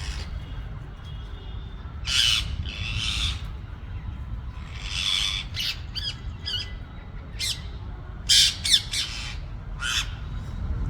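Rose-ringed parakeets giving short, harsh squawking calls, several birds, in irregular bursts that come thicker in the second half, over a steady low rumble.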